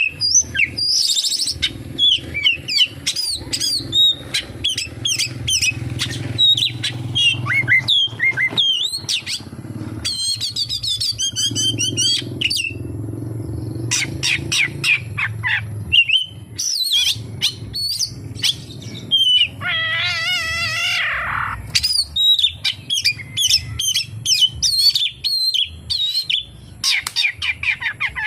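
Oriental magpie-robin singing a fast, varied song of whistles, chirps and trills, stuffed with mimicked calls of other birds such as the pied triller; about two thirds of the way through comes one long wavering trill that falls in pitch. A low steady hum runs beneath.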